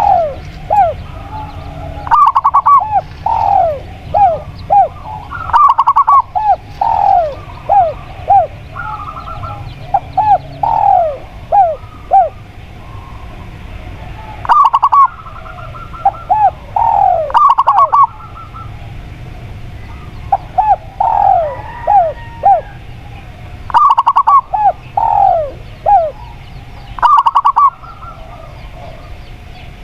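Spotted dove and zebra dove calling over each other in repeated phrases. Each phrase has a run of short quick notes and several falling coos.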